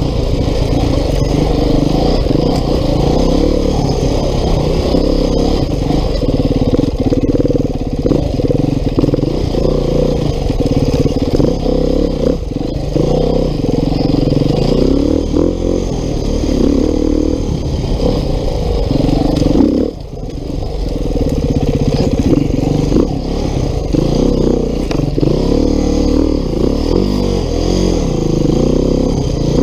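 2019 Beta 390 RR-S single-cylinder four-stroke dirt bike engine under way, its pitch rising and falling with the throttle. Its pitch falls off briefly about twenty seconds in, then it picks up again.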